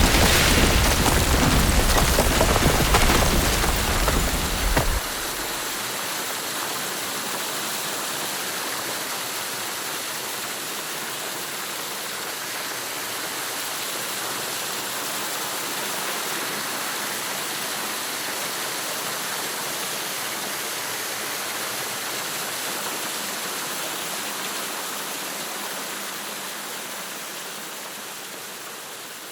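A deep rumble cuts off about five seconds in, leaving a steady rushing hiss like spraying water, which fades near the end.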